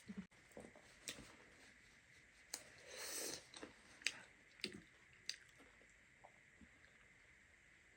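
Close-miked eating sounds: a person chewing, with several scattered sharp clicks and a brief noisy burst about three seconds in.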